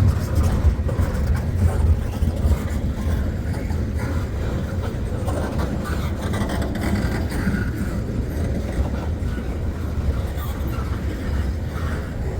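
Freight cars of a long train rolling past, a steady rumble of steel wheels on the rails.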